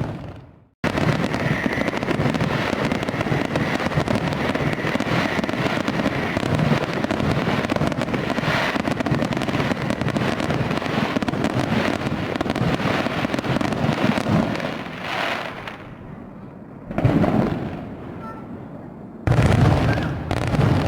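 Fireworks display: a dense barrage of bangs and crackling that thins out and fades about 15 s in, then another report about 17 s in and a sudden fresh volley near the end.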